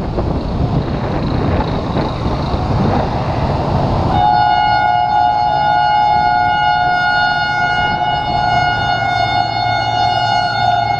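HGMU-30 diesel-electric locomotive running with a loud rushing rumble. About four seconds in, its air horn sounds one long steady blast of two close tones.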